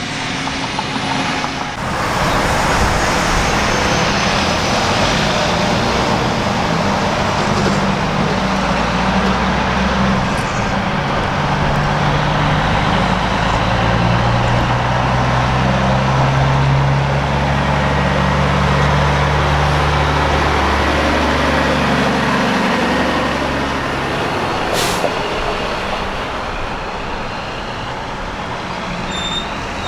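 Diesel semi truck engine running as the truck moves past, its low engine note stepping up and then holding steady for several seconds, over a constant wash of road and traffic noise. A brief sharp hiss comes about 25 seconds in.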